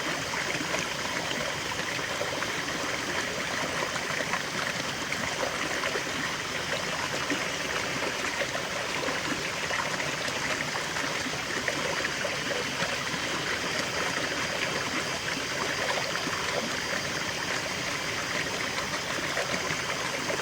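A stream's water babbling and trickling steadily, with no change in level.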